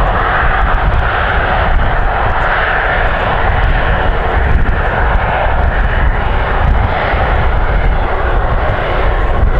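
Jet airliner engines running loud and steady: a broad rushing noise over a deep rumble that swells and eases slightly, with no clear pitch.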